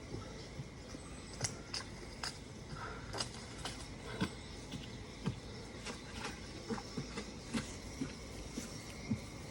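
A bicycle being ridden, its parts clicking and rattling irregularly about once or twice a second over a steady background hiss, with a faint steady high tone behind.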